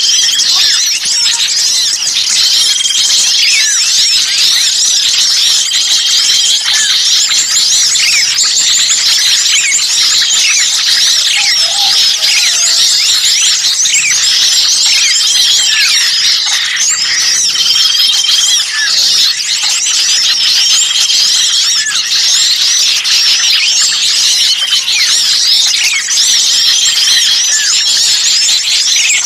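Dense, continuous chorus of small songbirds' shrill chirps and chattering calls, overlapping without a break, with a held high whistle-like note coming back every few seconds. A bird-lure recording of agitated small birds calling as if one were caught, used to draw other birds in.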